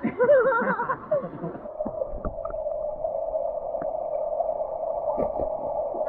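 Rushing waterfall water, a steady muffled rush with the high end cut off, with a voice calling out in the first second or so.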